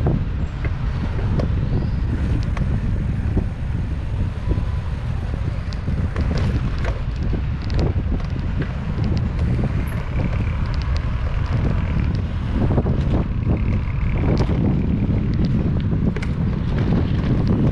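Wind buffeting the microphone during a bicycle ride, a steady heavy low rumble with scattered faint clicks and ticks.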